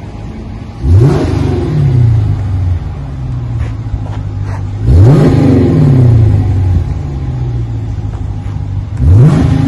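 Chrysler 300S exhaust through Magnaflow Magnapack mufflers and quad tips: engine idling, blipped three times, about four seconds apart, each rev rising sharply and falling back to idle within a second or two.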